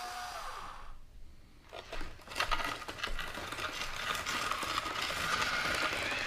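Hobby Engine HE0715 RC track loader's small electric motor whine falls in pitch and stops in the first second. After a brief lull, a dense gritty crackling and rattling starts, as the loader works heavy cat litter. A faint motor whine rises in pitch near the end.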